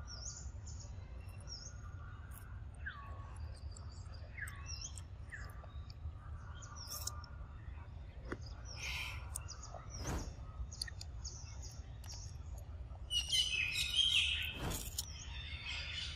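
Small birds chirping over and over in short high notes, mixed with a few lower down-slurred calls, and a louder flurry of chirps near the end. A few sharp clicks stand out among them.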